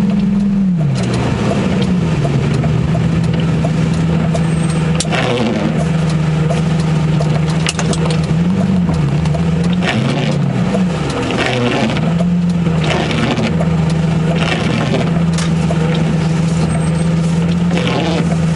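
Lamborghini Gallardo's V10 engine running at low revs while the car creeps along, heard from inside the cabin. Its pitch drops about a second in, then holds steady, with a few brief rises partway through.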